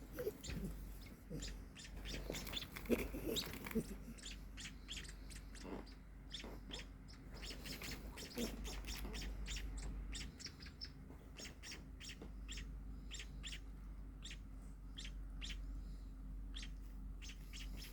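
Nestling small finches (Indonesian burung pipit/emprit) chirping over and over in quick, high cheeps: begging calls of hand-fed baby birds. Some soft low handling sounds in the first few seconds, over a steady low hum.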